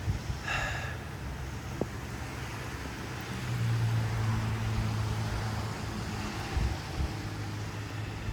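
Rain and wind noise on the microphone, with a low steady hum that comes up about three and a half seconds in and fades a few seconds later, and a brief high chirp near the start.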